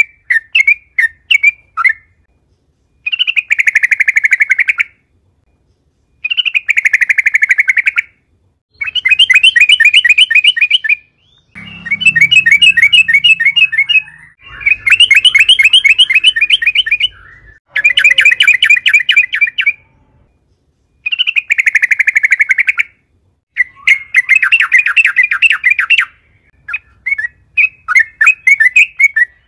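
Yellow-vented bulbul (trucukan) singing at full strength: loud, rapid bubbling phrases about two seconds long, repeated again and again with short pauses between them.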